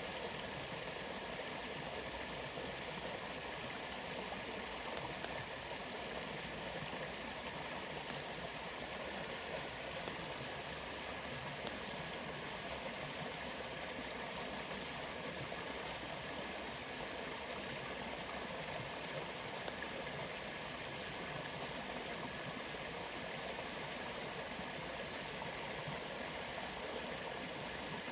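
Steady, unbroken rush of flowing and falling water, as from a rainforest waterfall and stream.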